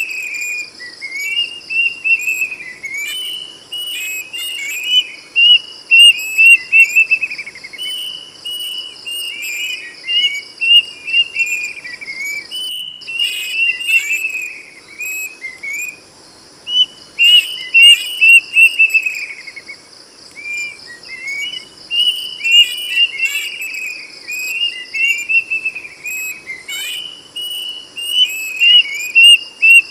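Kedasih cuckoo (plaintive cuckoo) singing loud whistled phrases, each a quick run of notes falling in pitch, repeated one after another with short gaps. A steady high insect drone runs behind, and everything cuts out for a moment about 13 seconds in.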